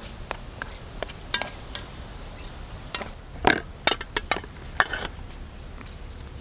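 Camp dishes and cutlery clinking and knocking: a string of short, irregular clicks with a cluster of louder knocks about three and a half seconds in.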